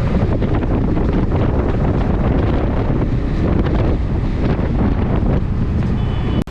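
Wind buffeting the microphone of a rider on a moving motorcycle: a loud, steady rush that cuts off abruptly near the end.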